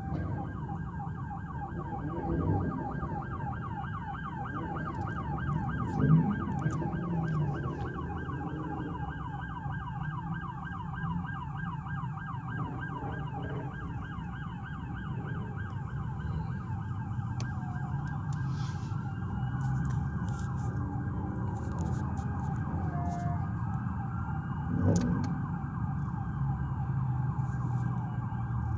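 Police car sirens going continuously in a fast yelping rise and fall, over the low rumble of car engines. A brief louder sound about six seconds in and again near the end.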